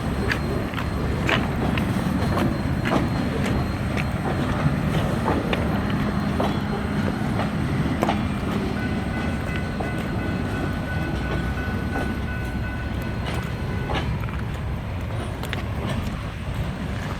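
Freight train rolling past, a steady low rumble with the steel wheels clicking irregularly over rail joints. A faint, thin wheel squeal comes in about nine seconds in and fades near the end.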